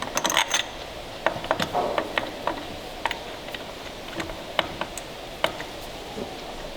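Irregular metallic clicks and taps, a quick cluster right at the start and then single clicks every half second or so, from hand tools and parts being handled while a new hydraulic engine mount is fitted.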